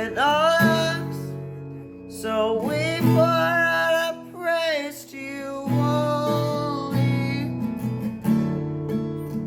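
Music: a strummed acoustic guitar with a solo voice singing long, held notes that slide in pitch.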